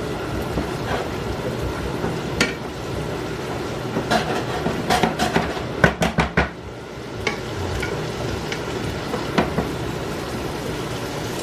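Diced onions and mushrooms sizzling in melting butter in a frying pan on high heat, with a utensil clinking and scraping against the pan several times, most busily around the middle.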